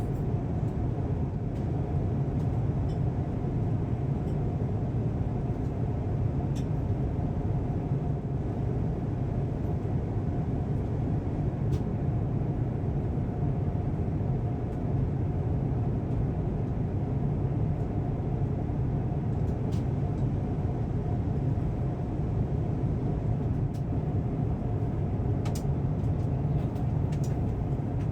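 Steady cabin noise of an Airbus A350-1000 airliner in cruise: an even low rumble with a faint steady hum, and a few faint ticks.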